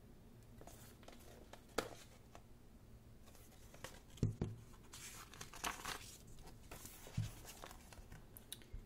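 Paper rustling and crinkling as the pages of a thick photobook are turned and handled, with a few light knocks of the book.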